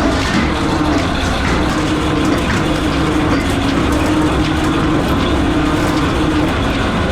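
Steady drone of running metalworking machinery with a constant hum.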